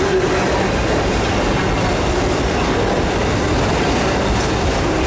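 Autorack freight cars rolling past close by: a steady, loud rumble of steel wheels on the rails.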